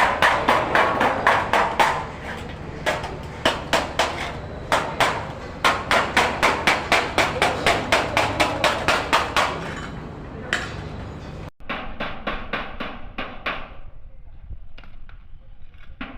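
Hammer blows on galvanized sheet-metal duct, fast and regular at about five strikes a second, in two long runs. Near the end the strikes give way to fewer, lighter taps.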